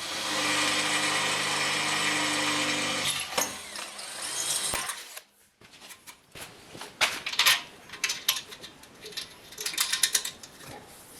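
A power drill runs steadily for about three seconds, then stops. It is followed by a scatter of sharp clicks and knocks of metal parts being handled.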